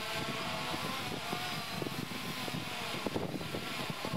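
3DR Iris+ quadcopter's electric motors and propellers whining steadily in flight, with gusty wind buffeting the microphone.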